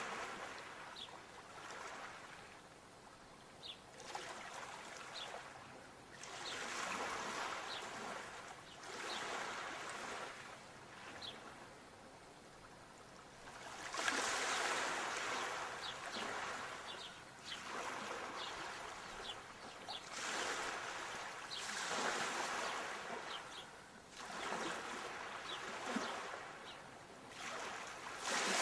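Small sea waves lapping and washing in, each swell rising and falling back every couple of seconds, with faint trickling. The swells grow louder about halfway through.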